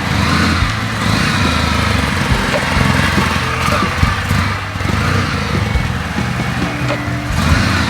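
Kawasaki W650's air-cooled vertical-twin engine running on its stock mufflers, a steady exhaust note with a regular low pulse.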